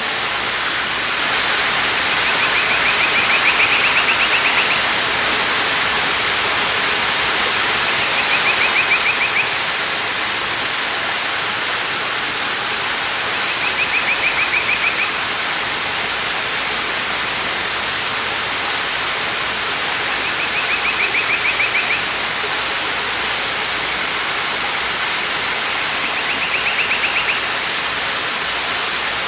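Waterfall: a steady rush of falling water. Over it a bird repeats a short, rapid trill about every six seconds.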